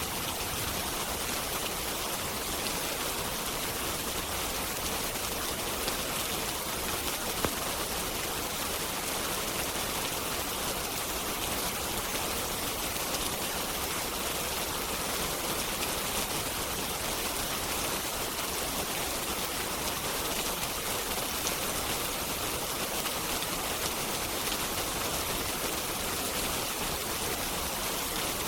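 Steady rain, an even hiss with no let-up, with a couple of brief sharp clicks about six and seven seconds in.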